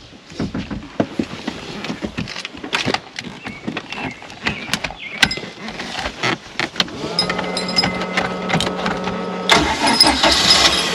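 Boat engine being started after a stall: scattered clicks and knocks, then a steady hum, and about nine and a half seconds in the engine catches and runs loudly.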